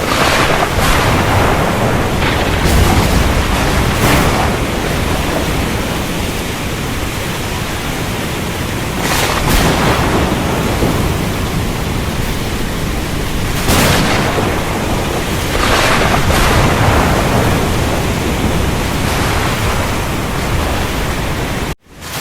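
Thunderstorm: steady heavy rain noise with swells of thunder rumbling through it. The sound cuts out abruptly for a split second near the end.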